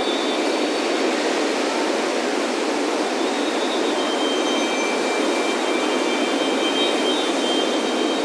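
Steady, unbroken wash of ocean surf breaking on a beach, with metal wind chimes ringing in high, lingering tones that come and go over it.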